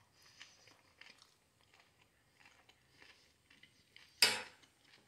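Faint close-up chewing of a mouthful of grated carrot and salad, soft crunches and small mouth clicks. About four seconds in, one short, louder clink of a fork against the plate.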